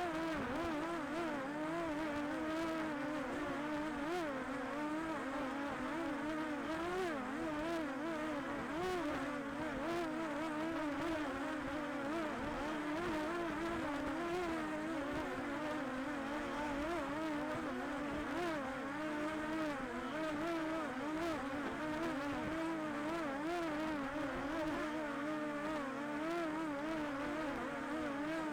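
Quadcopter drone's motors and propellers whining steadily, the pitch wavering up and down constantly as the motors adjust.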